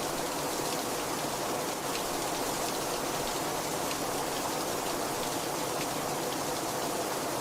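Very heavy rain falling steadily: a dense, even hiss of rainfall with faint taps of single drops striking scattered through it.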